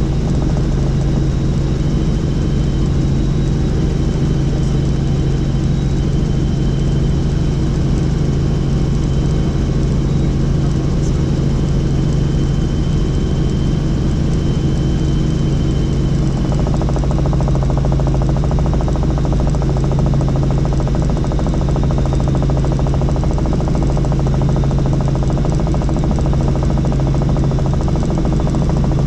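Helicopter in flight: steady, loud rotor and engine noise, a constant low drone with a fast pulse, with a faint high whine over it for the first half.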